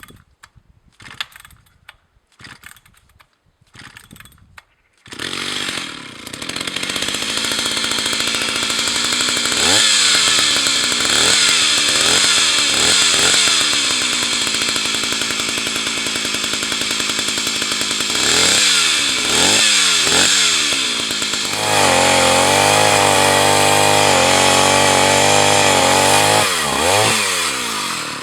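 Jonsereds 601 Raket 56 cc two-stroke chainsaw starting about five seconds in after a few short knocks, then idling with several quick throttle blips. Near the end it is held at high revs for about four seconds before dropping back to idle.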